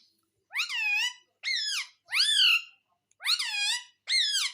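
Pet parrot calling five times in quick succession. Each call is a short, shrill note that rises and then falls in pitch.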